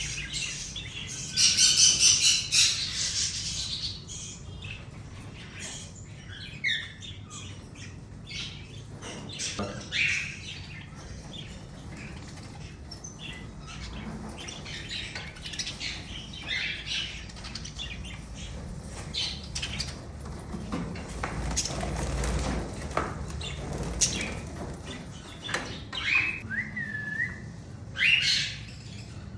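Many aviary birds calling and chirping at once, short high calls overlapping throughout, with a loud burst of calls about two seconds in and a single gliding whistle near the end.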